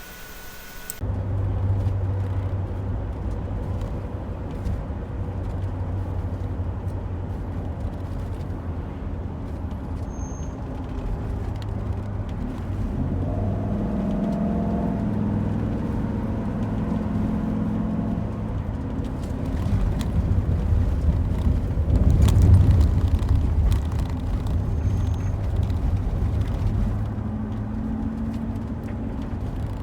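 Road vehicle driving: steady engine and road noise that starts about a second in.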